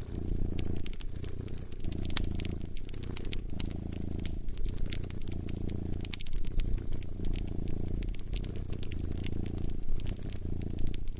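A cat purring close up, in a low continuous rumble that swells and dips about once a second with its breaths, over a wood fire crackling with frequent sharp pops and snaps.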